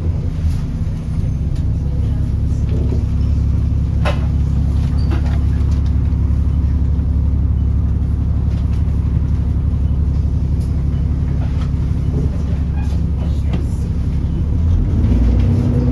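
Alexander Dennis Enviro400 E40D double-decker bus's diesel running under way: a steady low drone with scattered rattles and clicks. Near the end the engine note rises and gets louder as the bus accelerates.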